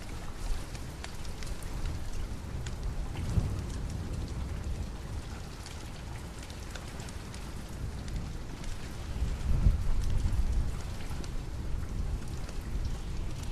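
Steady rain with two low rolls of thunder, one about three seconds in and a louder one near ten seconds in.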